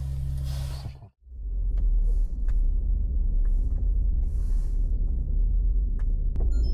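A car driving through deep snow: a continuous low rumble of tyres and running gear, with scattered knocks and short hisses. Before it, a steady hum cuts off about a second in.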